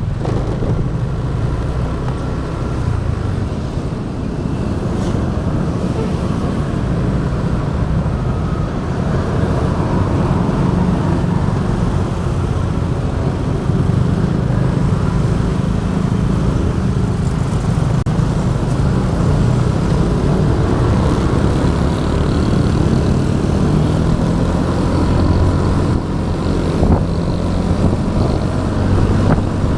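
Motorbike engine running steadily on the move, with road and traffic noise, growing a little louder over the first ten seconds or so and then holding steady.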